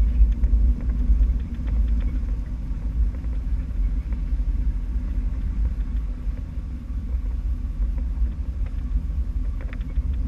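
Jeep CJ7 engine running at low speed off-road, a steady deep rumble.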